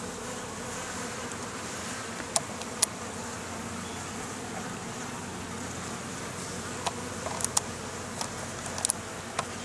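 Honeybee colony buzzing steadily around an opened hive. A few sharp clicks and taps come through, two about two and a half seconds in and a cluster in the last few seconds.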